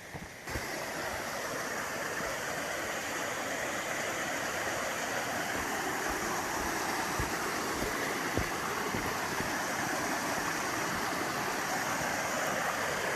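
Small waterfall on a mountain stream, water rushing steadily. It comes up about half a second in, with a few faint low knocks under it.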